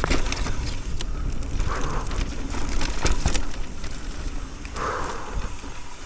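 Mountain bike riding down a steep, rocky trail: tyres crunching over dirt and rock, with sharp rattles and knocks from the chain and frame, and wind rumbling on the microphone. Two brief tyre skids come about two and five seconds in, as the tyres slide on the damp, slippery ground.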